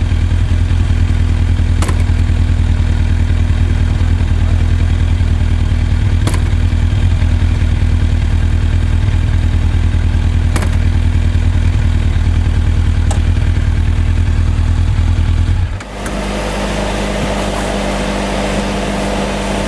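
Kawasaki GPZ1000RX inline-four motorcycle engine running steadily with a deep, even pulse, broken by a sharp clack four times at irregular intervals: the 'gashakon' clunk the bike is known for. About 16 seconds in the note changes abruptly, losing its deep pulse.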